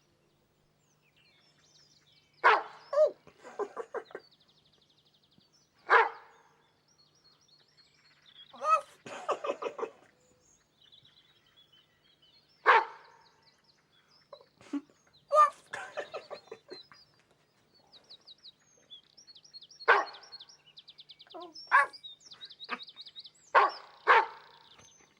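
Dog barking: short single barks and little clusters of barks every few seconds, with birds twittering quietly between them.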